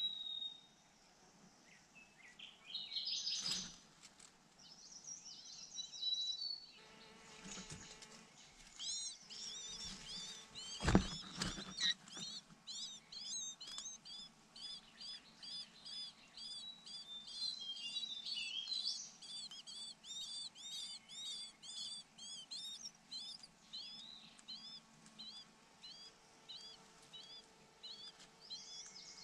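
Young bird's begging calls: short, high chirps repeated about twice a second in a long run while a parent feeds it. There is a single sharp knock partway through.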